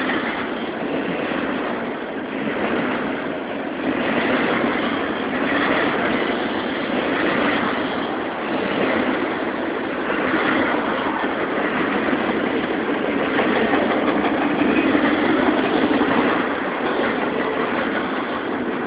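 Union Pacific intermodal freight train's cars rolling past on the rails, a steady rumble and rattle that swells and dips every second or two.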